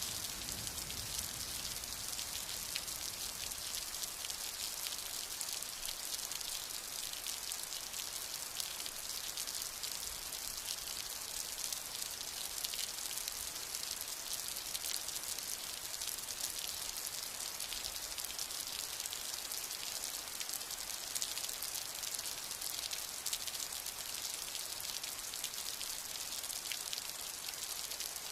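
Steady, heavy rain: a dense, even hiss of falling drops with fine individual drop ticks, unchanging throughout.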